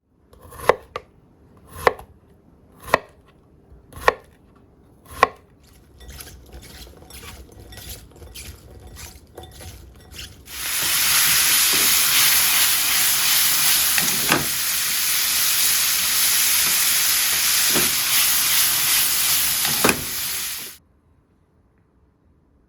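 A knife chopping on a cutting board: five separate strokes about a second apart, then quicker, lighter chopping. Then about ten seconds of loud sizzling as food stir-fries in oil in a pan, with a few knocks of the utensil against the pan, stopping suddenly.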